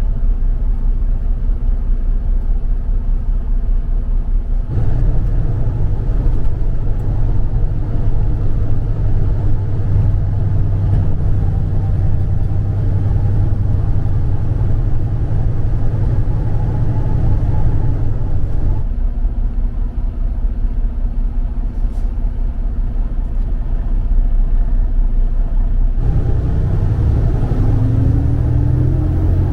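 Heavy truck's engine and road noise while driving: a steady low rumble that shifts abruptly a few times, with a short rising tone near the end.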